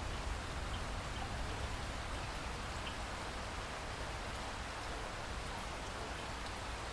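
Steady rainfall, an even hiss with a few faint scattered drop ticks.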